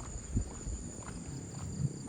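Footsteps of a person walking along a path, soft thumps at a walking pace, over a steady high-pitched drone of insects.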